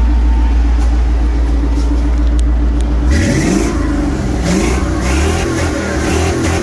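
Small-block Chevy 350 V8 in an Isuzu NPR cabover idling steadily, then revved up and down several times from about three seconds in. It now runs with power after a fix that the owner thinks has cured its long hard-starting problem.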